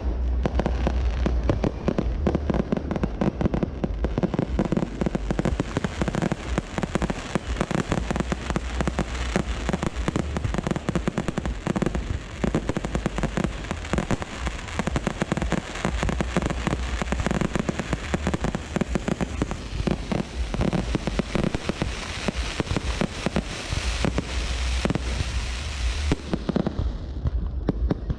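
Fireworks display: a dense, continuous barrage of bangs and crackles from bursting aerial shells. The crackling thins out near the end.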